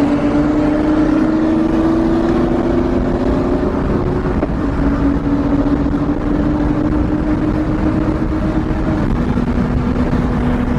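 Car engine pulling hard at full throttle. Its pitch climbs slowly and drops back at gear changes about four and about nine seconds in, over heavy road and wind noise.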